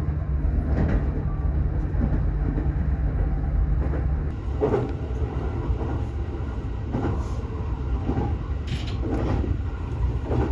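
Commuter train carriage running on the JR Itsukaichi Line, heard from inside: a steady low rumble with a handful of short knocks from the wheels and track. A low hum drops out about four seconds in.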